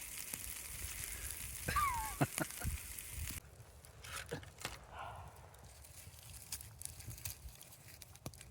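Food sizzling in a frying pan over a campfire, cut off abruptly about three and a half seconds in, followed by faint scattered clicks and crackles.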